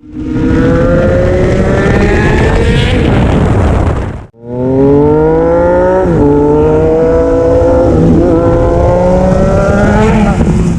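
Sport motorcycle engine accelerating hard, loud, its pitch climbing steadily. The sound cuts off suddenly about four seconds in, and a second run of revving begins. About six seconds in the pitch drops briefly and climbs again at a gear change.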